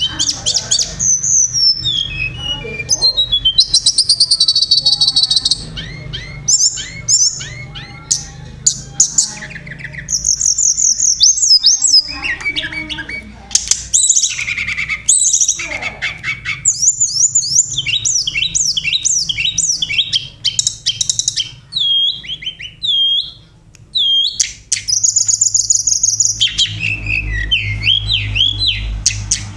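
Song of the tledekan gunung (sulingan gunung), played as a lure call: rapid, varied high whistles, falling notes and chirps in quick runs with brief pauses. A steady low hum runs underneath and grows louder near the end.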